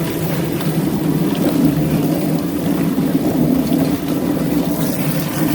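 Motorized chicken plucker running with a steady low drone as it tumbles freshly scalded birds to strip their feathers.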